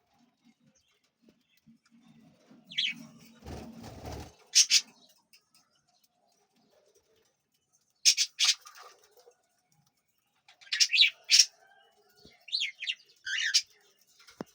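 Cockatiels giving short, sharp chirps in scattered bursts, several in quick succession around the middle and near the end, with a brief low rustle of movement about four seconds in.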